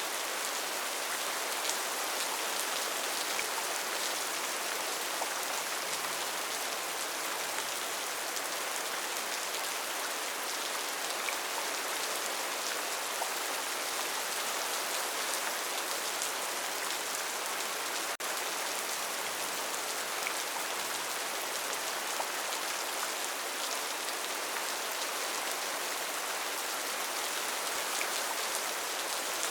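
Steady rainforest rain: an even hiss of rainfall with individual drops ticking through it. A split-second dropout comes a little past halfway.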